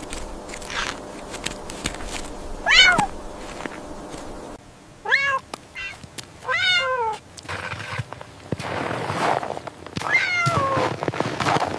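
A cat-like animal meowing four times, each call falling in pitch.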